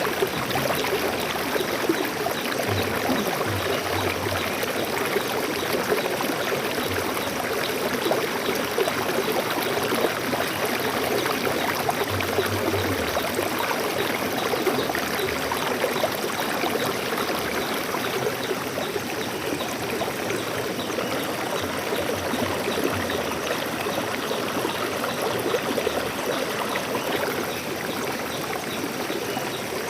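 Stream water flowing and trickling over rocks, a steady, continuous rushing babble.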